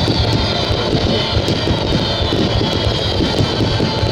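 Starmine fireworks barrage: a dense, continuous stream of booming bursts and sharp crackles. Music plays alongside, with a slowly falling high tone.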